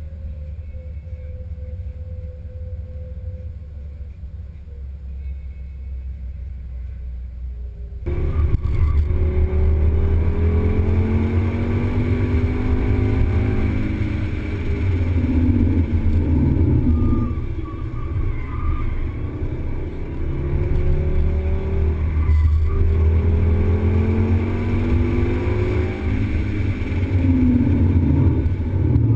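A car in motion, with a steady low rumble that gets louder about eight seconds in. Pitched tones slide up and down several times over the rumble, the brake noise the recording was made to capture.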